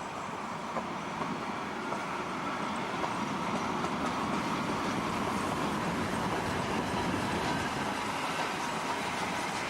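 Train coaches rolling along the track at low speed: a steady rolling noise from wheels on rails that grows slightly louder over the first few seconds.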